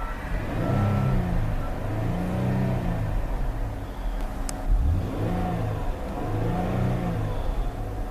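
A 2013 Ford Taurus Limited's 3.5-litre V6 is revved four times while parked. Each blip rises and falls back to idle over about a second. There is a single sharp click about halfway through.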